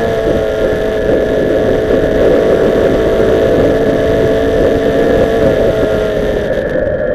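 Honda Fan 125's single-cylinder four-stroke engine running at steady revs with heavy wind noise on the helmet microphone, easing off slightly near the end. The bike is running without its air filter.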